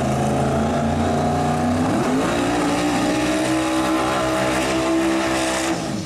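Drag racing car engine running hard at high revs; its pitch climbs quickly about two seconds in, holds high, and drops away abruptly near the end.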